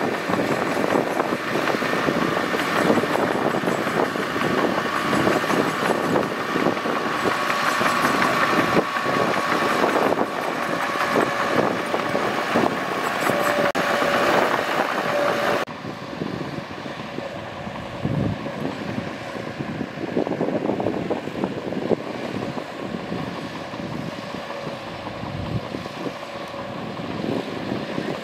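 Mitsubishi bulldozer's diesel engine working, with rattling and clanking. The sound drops suddenly to a quieter, duller level a little past halfway.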